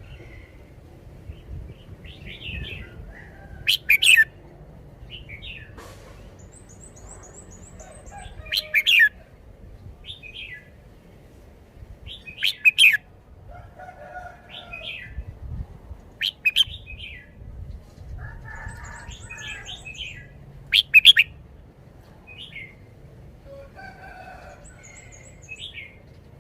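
Red-whiskered bulbul singing: loud, short phrases about every four seconds, with softer chirps between them. A faint, high, rapid trill sounds three times.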